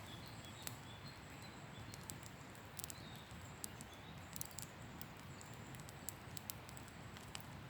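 Wood campfire crackling: irregular, sharp pops and ticks, a few each second, over a faint steady hiss.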